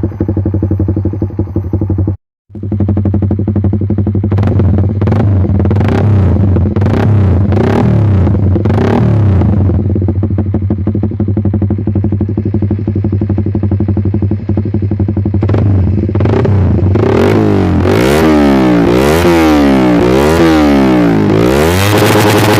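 Motorcycle engine through a Pro Liner TR1 racing exhaust, idling steadily, then given short throttle blips, and near the end revved up and down repeatedly.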